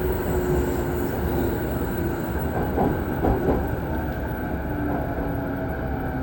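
Saikyo Line electric commuter train running along the track: a steady wheel-and-rail rumble with a faint motor whine, its pitch shifting slightly.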